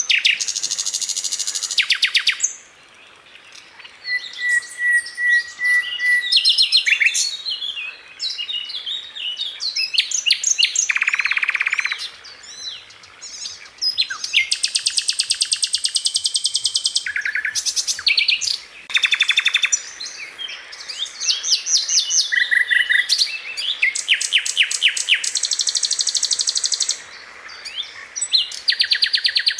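Sikatan londo (a flycatcher kept as a songbird) singing: rapid, tightly packed high trills and chirps in bursts of one to three seconds, separated by short pauses, with a short run of evenly spaced whistled notes between them.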